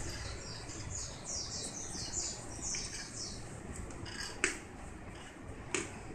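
A bird chirping in a quick run of short, high, falling notes over the first three seconds, then two sharp clicks about a second and a half apart.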